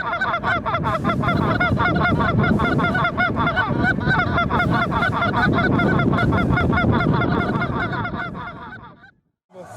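A large flock of Canada geese honking, many calls overlapping in a dense, continuous chorus that fades away near the end.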